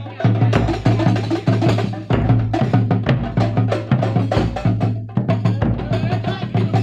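Kuntulan ensemble playing: drums and other percussion strike a fast, steady rhythm over a sustained low tone.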